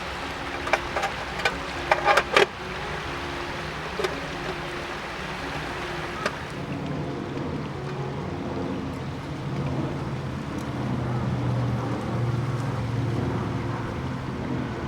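Cooking on a small gas stove: a few sharp clinks of utensils against cookware between one and two and a half seconds in, over a steady hiss that grows a little louder in the second half.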